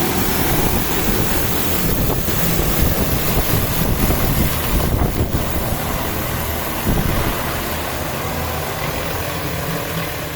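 DJI T50 agricultural spray drone's rotors running at take-off power, with the rotor downwash buffeting the microphone. The noise eases slightly in the second half as the drone climbs away.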